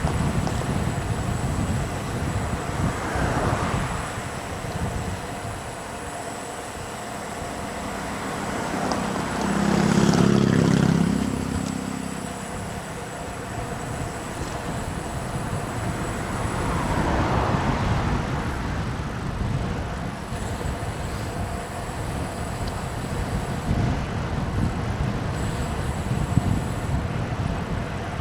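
Road traffic passing with rushing wind and road noise. Several vehicles swell up and fade away, the loudest a deep-running vehicle about ten seconds in.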